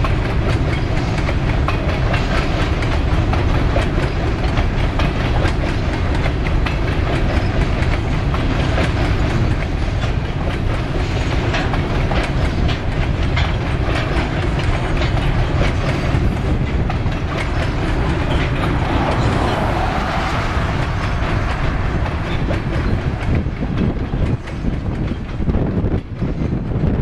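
Covered hopper cars of a potash freight train rolling past: a steady rumble of steel wheels on rail with rapid clickety-clack over the rail joints, growing uneven near the end.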